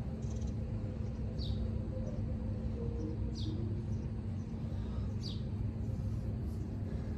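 A bird repeating a short, falling call three times, about two seconds apart, over a steady low rumble.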